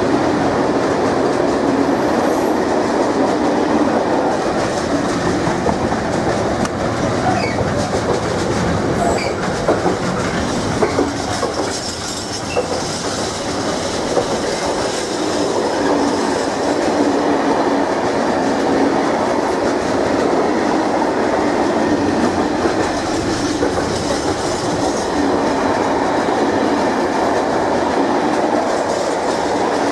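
Container freight train's wagons rolling past close by, a steady loud rumble with the clatter of wheels over the rail joints. The Class 66 diesel locomotive's engine fades away in the first couple of seconds.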